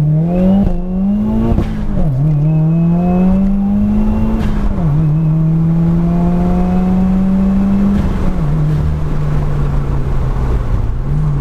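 2017 Subaru WRX's turbocharged flat-four, Stage 2 tuned with an Invidia R400 exhaust, accelerating through the gears: the pitch climbs in each gear and drops at each of three upshifts, then runs steadier near the end.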